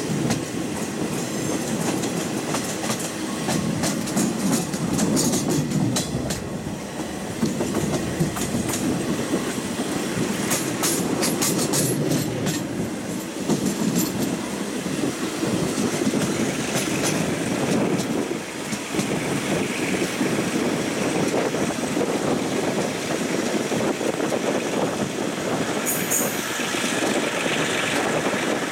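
Old Japanese-built passenger coach rolling along the rails at low speed, with steady running noise and wheels clacking over rail joints and points, most densely about ten seconds in. A brief high squeal comes near the end.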